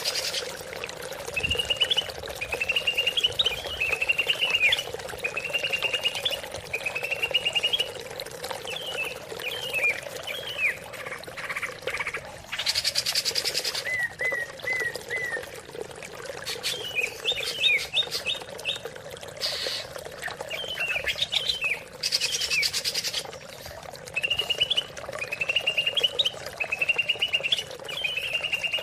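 Green leafbird (cucak ijo) singing a run of rapid chirping, trilling phrases, broken twice by a louder harsh buzzing burst, about halfway and two-thirds of the way through. A steady background hum runs underneath.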